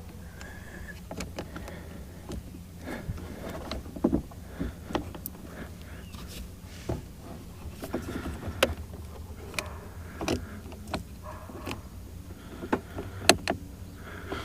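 Irregular clicks and light knocks of parts and tools being handled while a boat remote control is worked on, over a steady low hum.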